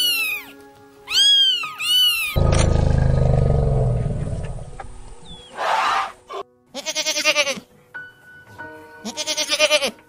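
Animal sound effects over light background music: a cat meowing at the start, then a long, deep elephant roar that slowly fades, a short noisy blast, and a goat bleating twice near the end.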